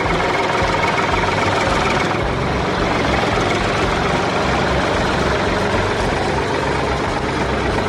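Tractor diesel engine running steadily and loudly, with a dense, rough rumble.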